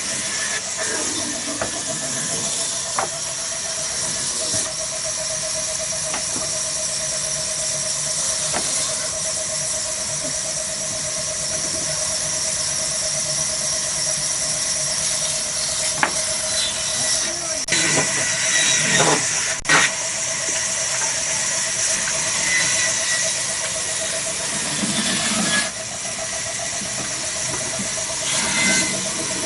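Petter diesel engine driving a wood-cutting saw machine, with a steady squeal held over the running noise and a few sharp clicks now and then.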